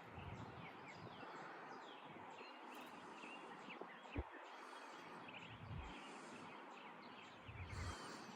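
Small birds chirping steadily and faintly, many short calls overlapping, with soft rustles every second or two and a single sharp click about four seconds in.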